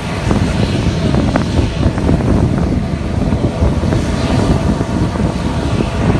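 Departing jet airliner's engines, a loud, steady rumble with gusty buffeting on the microphone.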